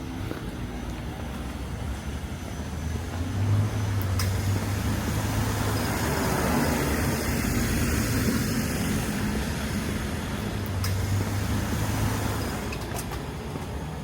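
Street traffic: a motor vehicle passes close by, its road noise swelling to a peak midway and fading away, with a low engine hum.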